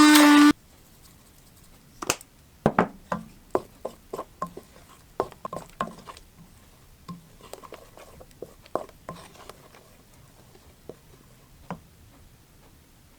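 Irregular knocks and clinks of dishes and utensils being handled on a kitchen counter, some with a short ring, busiest in the first half and thinning out. Music cuts off about half a second in.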